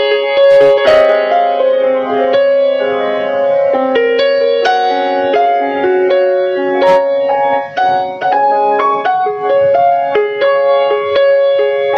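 Background piano music: a flowing melody of single notes over held chords.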